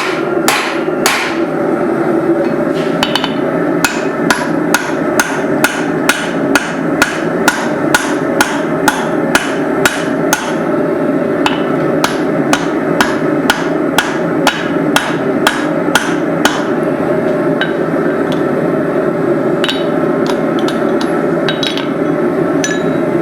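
Hand hammer driving a steel drift through the eye of a hot hammer head set in a swage block: sharp, ringing steel-on-steel blows about two to three a second for some fifteen seconds, then a few lighter, scattered strikes near the end, over a steady rushing background noise.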